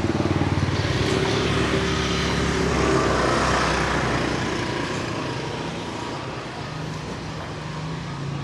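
A motor vehicle's engine running close by as it passes, loudest about three seconds in and then fading, over steady street traffic.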